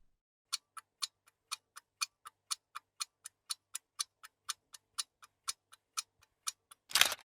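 Steady ticking, about four evenly spaced ticks a second, like a clock or countdown timer, cut off near the end by a short, louder noisy burst.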